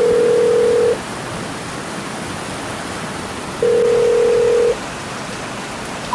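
Telephone ringback tone: a steady low beep sounding twice, about a second each, with about two and a half seconds of gap between. Behind it is a steady hiss of rain.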